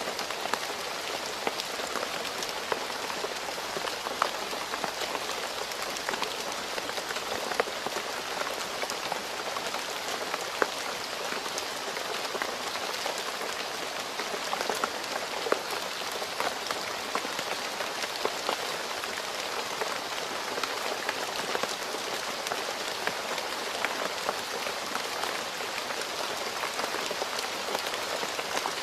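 Steady rain falling on a road surface: an even hiss dotted with the sharp taps of individual drops.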